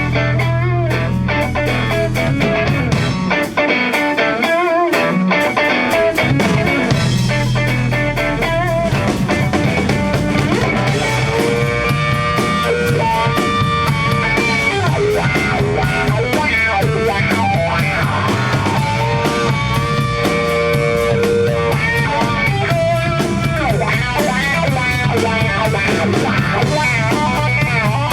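Rock band playing an instrumental passage: guitars over a drum kit and bass, with long held guitar notes in the middle stretch.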